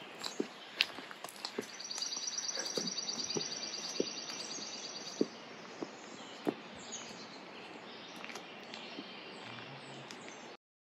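A bird sings a rapid, even trill of high notes for about three and a half seconds, over a steady outdoor background hiss. Scattered soft clicks of footsteps on the road come and go, and the whole sound cuts off abruptly near the end.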